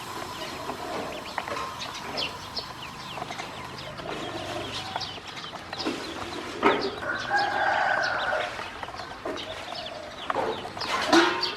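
Ducklings peeping in many short, high chirps, with a rooster crowing once for nearly two seconds about halfway through and chickens clucking.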